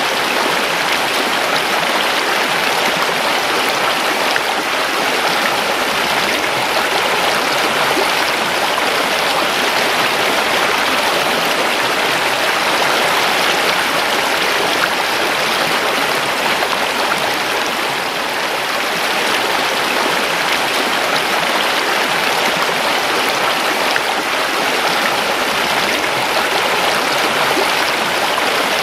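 River water running over rocks, a steady rushing and babbling.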